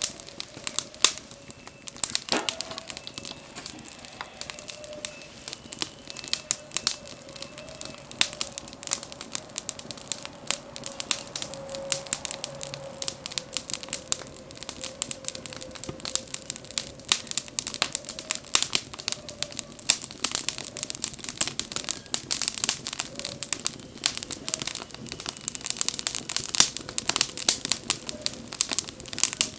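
Wood bonfire burning, crackling and popping with many sharp snaps, with a faint wavering whistle underneath for most of the first two-thirds.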